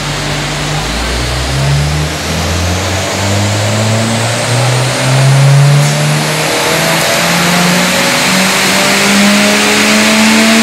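Ford Focus 1.8-litre four-cylinder petrol engine revving up under load on a rolling road during a dyno power run, its note rising steadily in pitch as the revs climb.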